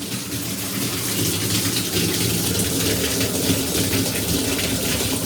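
Cold water gushing steadily out of a shower valve body with its cartridge removed, through a drainage pipe into the shower pan, flushing the cold supply line. A low steady hum runs underneath.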